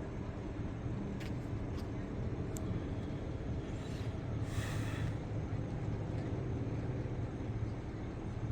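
A vehicle engine idling with a steady low rumble, a few faint ticks in the first few seconds and a short hiss about halfway through.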